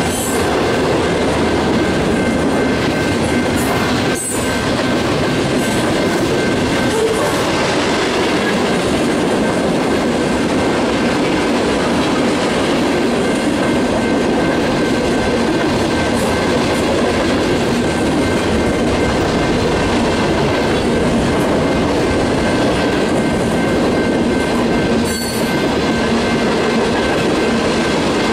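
Freight train tank cars and covered hoppers rolling past close by: a loud, steady rolling noise of steel wheels on the rails, with a faint steady high tone running under it.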